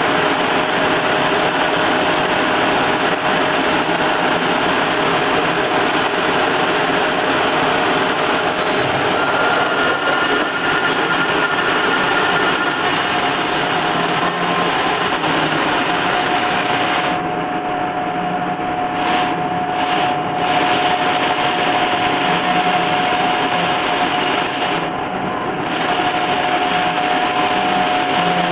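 Kress router spindle running at about 20,000 rpm with a 2 mm two-flute end mill cutting 3 mm aluminium on a homemade CNC mill, dry with no coolant: a loud, steady high whine over harsh cutting noise. In the second half the cutting noise drops away briefly a few times.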